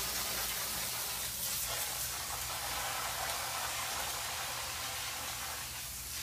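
Steady hiss of water spraying as the puppies' potty patches are being cleaned off, easing slightly near the end.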